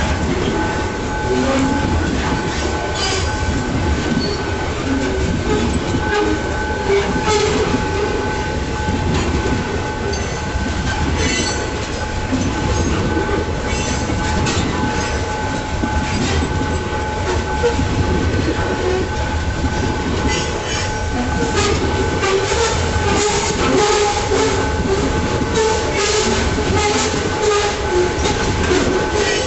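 A freight train rolling past, its wheels clicking irregularly over the rail joints over a continuous rumble, with two steady high tones held throughout.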